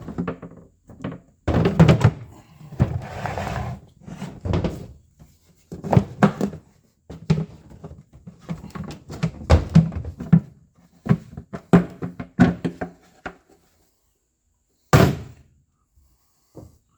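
Handling noise from unpacking a heavy Ford 9-inch rear-end center section from its plastic case: a long run of knocks, clatters and thunks with rustling of packaging. One loud thunk comes about 15 seconds in.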